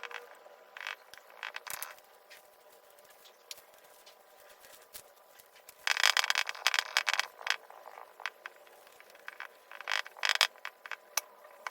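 Scattered clicks and scrapes, with two louder rattling clusters of scraping, one about halfway through and a shorter one near the end.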